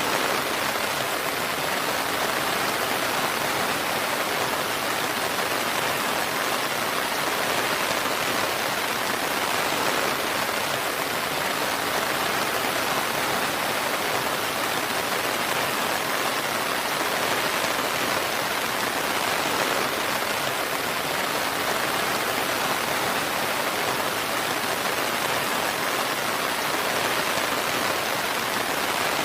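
Steady rain falling, an even hiss of drops with no thunder or changes.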